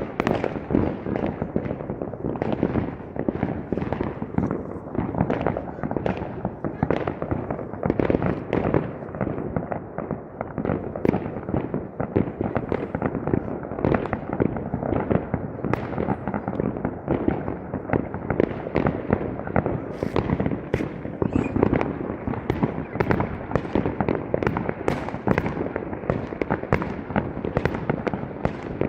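Fireworks going off in a dense, continuous barrage of sharp bangs, several a second.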